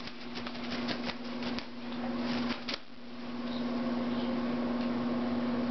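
Quick, dense clicking and rustling for about the first three seconds, then only a steady low electrical hum.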